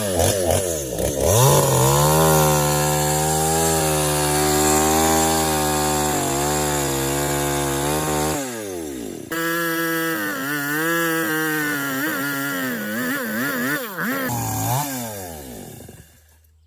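Small two-stroke chainsaw engine running, its pitch rising and falling as it is revved up and back down several times. The sound changes abruptly about nine seconds in, then fades out near the end.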